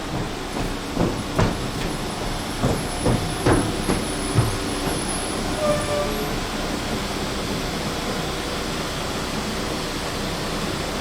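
A train running along the track, its wheels clicking irregularly over rail joints for the first four seconds or so above a steady rumble. A faint high-pitched squeal comes in around the middle.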